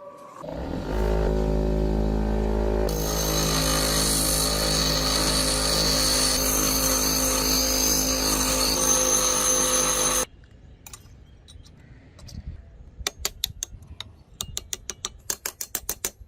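Electric power tool spinning up, then running steadily with a harsh hiss from about three seconds in, typical of grinding on the steel drill bit; it cuts off abruptly after about ten seconds, followed by a series of light clicks and taps.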